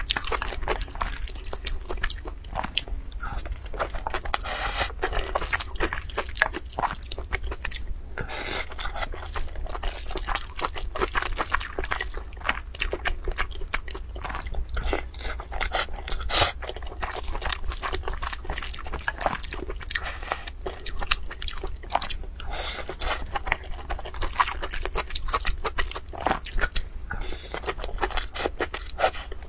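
Close-miked chewing and wet mouth sounds of a person eating fried rice, full of small clicks and crunches, with a wooden spoon scooping in a glass bowl now and then. A steady low hum runs underneath.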